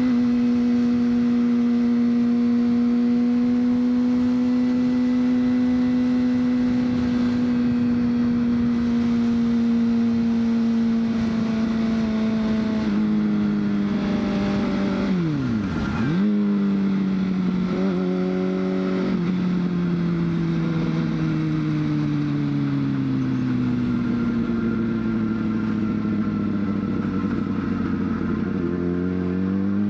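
2003 Honda CBR600RR's inline-four engine holding a steady note at cruise, with wind rush. About halfway through the note drops, dips sharply and recovers as it shifts gear, then steps through a couple more quick changes. It sinks slowly as the bike slows, and revs climb steeply near the end as the bike accelerates.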